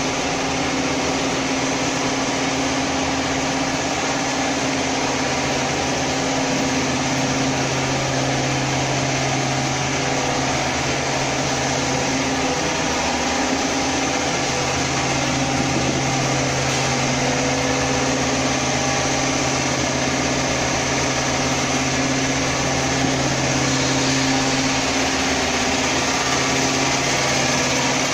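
Vacuum frying machine running: a steady mechanical hum with a constant hiss above it, the lowest hum fading out for a moment about thirteen seconds in.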